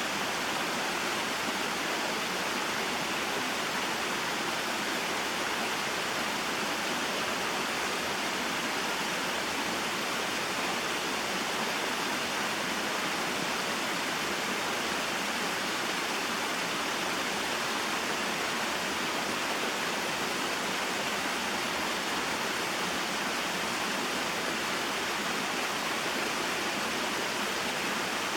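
Small mountain waterfall and stream: a steady, even rush of flowing water that never changes.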